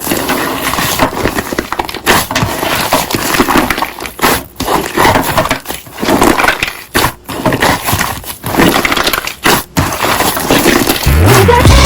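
Slime being squished, stretched and pressed by hand, a continuous stream of wet crackling noise. Background music comes in about eleven seconds in.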